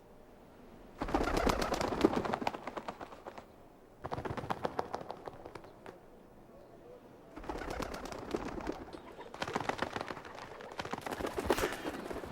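Pigeon sounds in five separate bursts: flapping and clattering wings with cooing.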